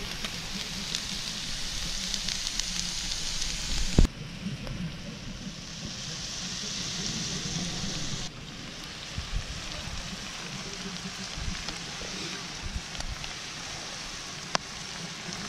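Shaved steak, green peppers, mushrooms and onions sizzling on a cast-iron griddle over a grill: a steady frying hiss that drops in level twice, about four and eight seconds in, with a couple of sharp clicks.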